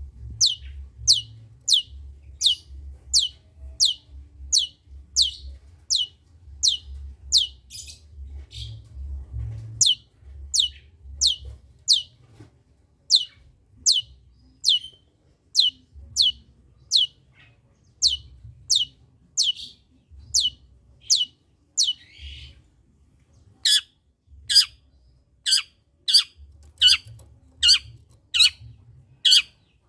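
Long-tailed shrike (cendet) calling in a long, rapid series of sharp, harsh notes that each sweep down in pitch, about two a second. From about two-thirds of the way in the notes grow louder and reach lower.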